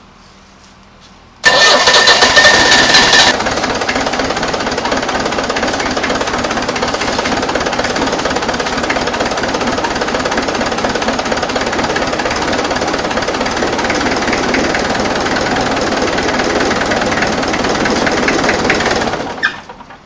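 Perkins 4.203 four-cylinder diesel engine of a Yale forklift being started. For about two seconds it cranks loudly with a steady whine, then catches and runs at an even idle, and stops near the end.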